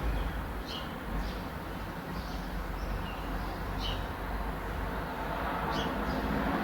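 Birds chirping: short high calls about six times, over a steady low rushing background.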